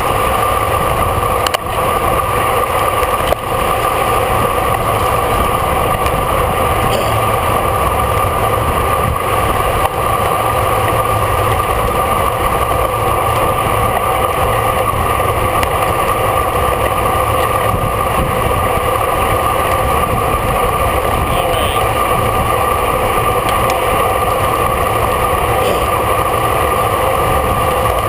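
Steady wind and road noise on a bicycle-mounted camera while riding in a road race, with a constant hum and a few faint clicks.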